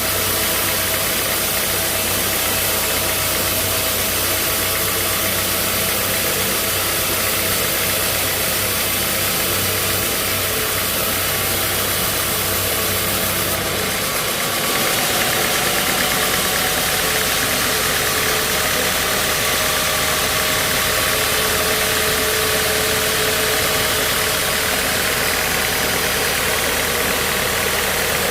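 Sawmill machinery running steadily: an engine-driven saw rig with constant mechanical noise. The sound changes abruptly about fourteen seconds in.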